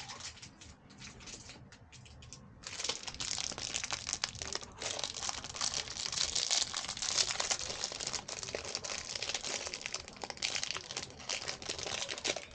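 Packaging being handled, crinkling and rustling. It starts sparse with a few clicks, then turns continuous and busy from about two and a half seconds in.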